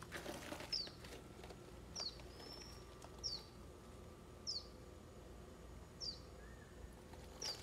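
A small bird calling a short, high, falling chirp about every second and a quarter, six times, over faint steady background noise.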